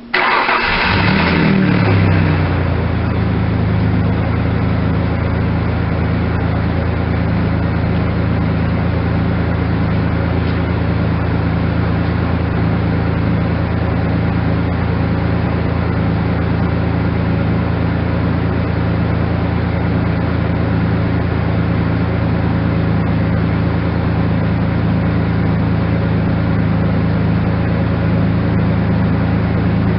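2002 Ford Ranger's 3.0-litre Vulcan V6 cold-starting through a Flowmaster Super 44 muffler: it fires right at the start, flares up briefly, and settles within about two seconds into a steady idle.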